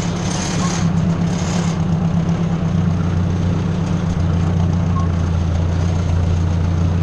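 Ford 600 tractor engine running steadily at low speed, its low note growing a little heavier a couple of seconds in. A hiss sits over it for the first second or two.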